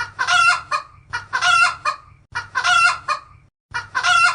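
Chicken clucking: a run of loud squawking calls, each opened by a short note and repeated about once a second.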